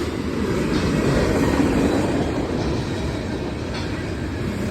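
Cars of a manifest freight train rolling past: a loud, steady rumble of steel wheels on the rails.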